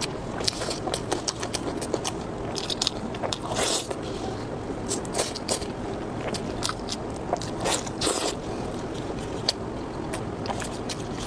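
Close-miked eating: chewing with many short, irregular wet mouth clicks and bites, with utensils scraping now and then.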